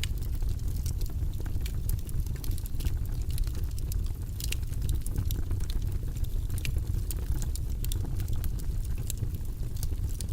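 Wood fire burning in a fireplace: a steady low rumble of the flames with frequent sharp crackles and pops from the burning logs, several a second at irregular intervals.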